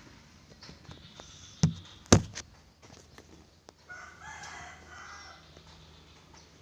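Two sharp knocks close together about a second and a half in, then an animal call lasting about a second, a little before the middle.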